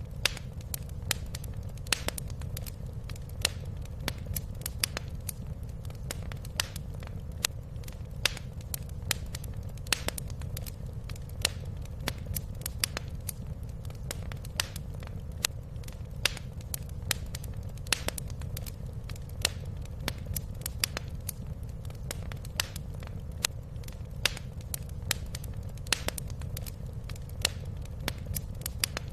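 Wood fire crackling in a fireplace: irregular sharp pops and snaps, sometimes several close together, over a steady low rumble.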